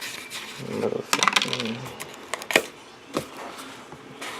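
Microphone packaging being handled: a quick run of clicks and rustles about a second in, then two single sharp clicks.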